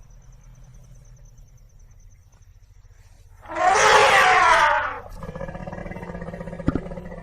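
African elephant calling: a loud, harsh call of about a second and a half just past the middle, followed at once by a lower, steadier call with several tones that fades near the end.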